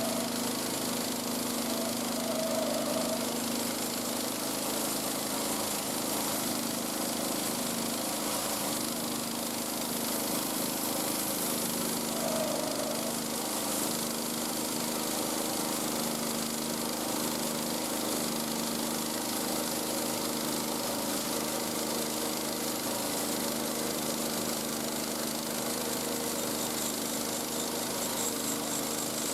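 Small petrol engine of a portable bandsaw mill running steadily at an even pitch as the band blade saws through a log.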